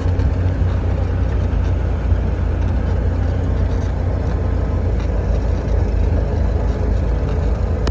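Motor vehicle running with a steady, loud low rumble, which cuts off suddenly at the end.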